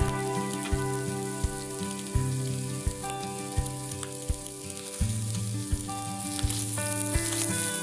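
Corned beef sizzling in a small frying pan, a steady high hiss that gets louder near the end, under background music with a steady beat.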